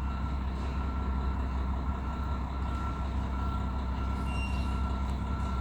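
A steady low mechanical hum with a faint, thin high whine running through it.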